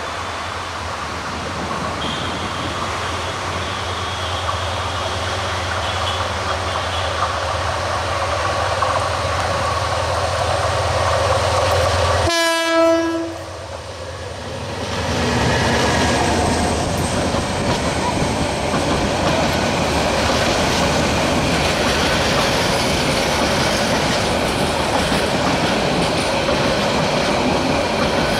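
Metre-gauge diesel locomotive approaching with its engine drone growing louder, then a short horn blast about twelve seconds in. After a brief lull the passenger coaches roll past with a steady rumble and the clickety-clack of wheels over rail joints.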